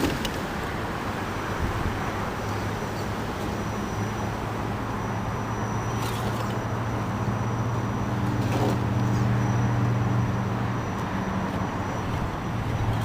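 A steady low motor hum over a background hiss, swelling slightly about eight seconds in and easing off near the end.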